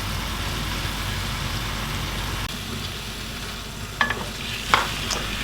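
Chicken with vinegar and soy sauce bubbling and sizzling in a saucepan at a brisk boil, a steady hiss. Two sharp knocks near the end.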